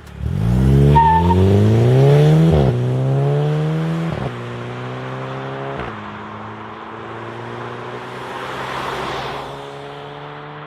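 VW Polo GTI 1.4 TSI twincharged four-cylinder with a Supersprint full exhaust accelerating hard: revs climb and drop sharply at three upshifts, then pull steadily in a higher gear while the sound fades away.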